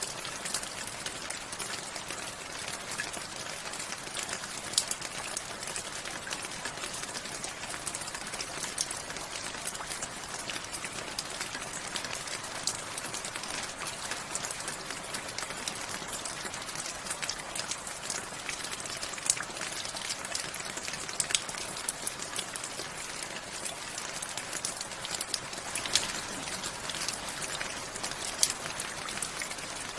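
Steady rain falling, with many sharp individual drops pattering on a hard surface over an even hiss.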